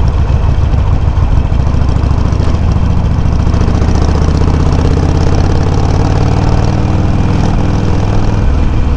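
Harley-Davidson Sportster 883's air-cooled V-twin running under way through aftermarket Customer exhaust tips with low baffles, picked up by a microphone on the bike. A steady exhaust note whose low rumble changes about eight and a half seconds in.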